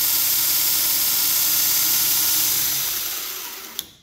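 Homemade 1x42 belt grinder with a 2 hp DC servo motor running a 1-inch belt, a steady hissing whir, then slowing down and dying away over the last second or so as it is shut off. A sharp click comes just before it falls quiet.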